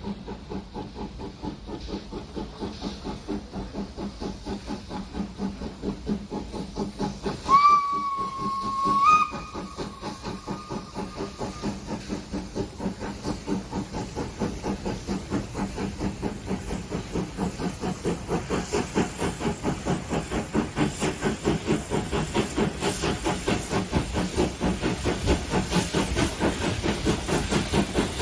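Steam locomotive running with a steady rhythmic chuff of exhaust beats, which grows louder in the second half. About a third of the way in, the whistle sounds for about two seconds, stepping up slightly in pitch near its end.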